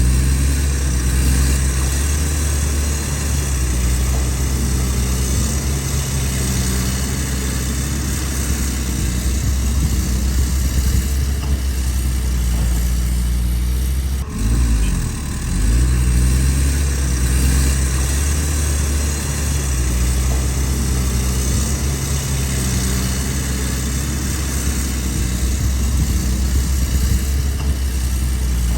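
Excavator's diesel engine running steadily, with a short drop and rise in revs about halfway through.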